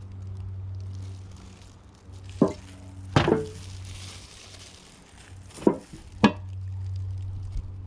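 Filter oil squirted from a bottle onto a new foam air filter in four short spurts, over a steady low hum.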